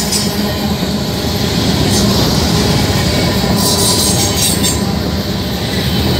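Freight cars of a passing BNSF manifest train rolling by close up: a steady rumble of steel wheels on rail. A high-pitched screech from the wheels rises out of it about three and a half seconds in and lasts about a second.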